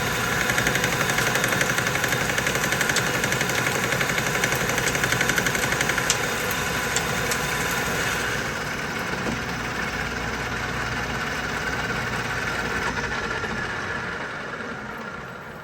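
Metal lathe taking a final boring cut in a steel plate with a boring bar: a steady motor and spindle hum under a dense, rapid chatter of the cut. About eight seconds in the cutting sound drops away and the lathe runs on more quietly. Near the end the level falls off.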